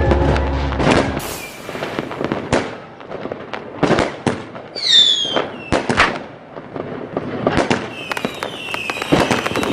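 Fireworks going off: scattered sharp bangs, a falling whistle about halfway through, and more whistles with dense crackling near the end.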